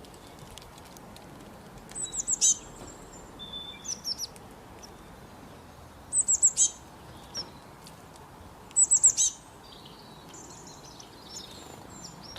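A small bird chirping in short phrases of three to five quick, high notes, four phrases in all, over a steady background hiss.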